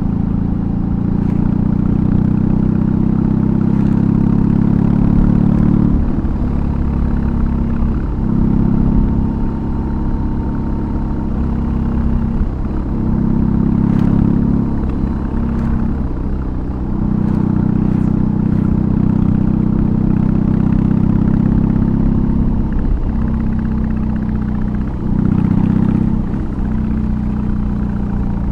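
BMW R18's 1802 cc boxer twin with an aftermarket exhaust, running under load while riding. The throttle is rolled off and back on several times, as at gear changes, so the exhaust note dips and picks up again.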